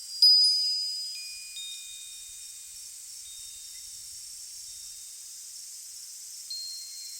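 Wind chimes ringing with high-pitched tones. One loud strike just after the start and a few softer notes over the next second and a half ring on and slowly fade, then fresh notes sound near the end.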